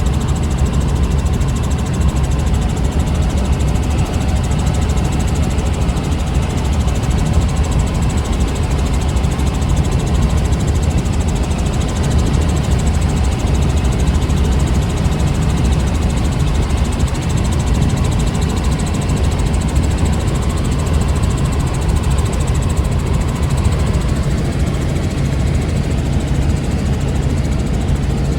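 Helicopter engine and rotor running steadily: a loud, even drone with a faint high whine that fades out near the end.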